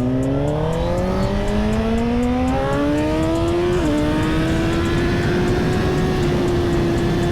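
Suzuki GSX-R1000 inline-four motorcycle engine pulling up through the revs, its pitch rising for about four seconds, then dropping sharply at a gear change and running at a steady pitch, over a steady rush of wind noise.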